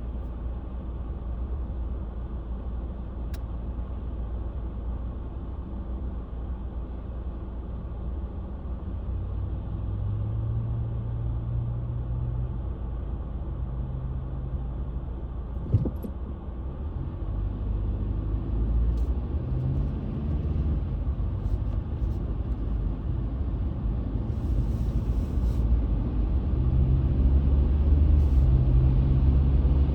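Car driving on the road, heard from inside the cabin: a steady low rumble of engine and tyres that grows louder through the second half, with a single sharp click about halfway through.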